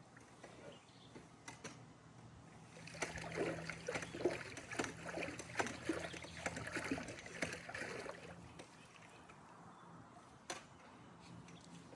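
Water splashing and sloshing in a pool for about five seconds, in irregular choppy strokes, over a steady low hum.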